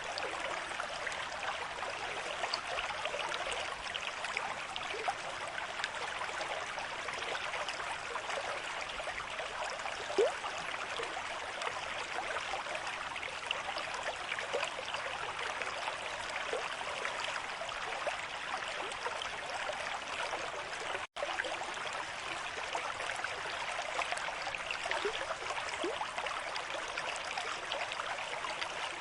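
River stream flowing steadily at a moderate rate, an even rush and babble of water with small splashes here and there. The sound cuts out for an instant about 21 seconds in.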